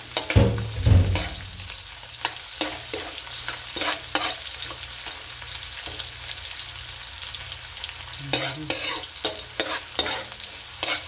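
Onion, garlic and ginger sizzling in hot oil in a metal wok, stirred with a metal spoon that scrapes and clinks against the pan at irregular moments. A low thump sounds in the first second.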